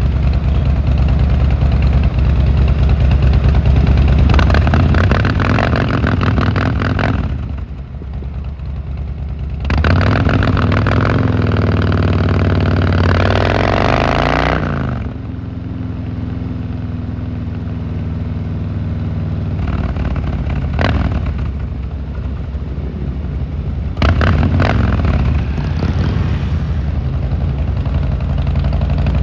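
Harley-Davidson Fat Boy Lo's V-twin engine running under way. The engine eases off about eight seconds in, then rises in pitch as it accelerates before settling back to a steadier, lower note, with a couple of brief sharp blips later.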